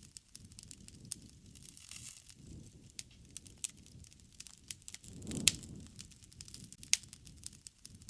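Campfire burning: irregular sharp crackles and pops of wood over a soft low rumble of the flames, with a louder pop about five and a half seconds in.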